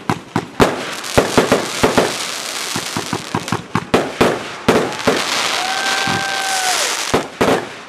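Aerial firework shells bursting: a rapid string of sharp bangs and crackles, with a steady held tone for about a second just past the middle that drops away at its end.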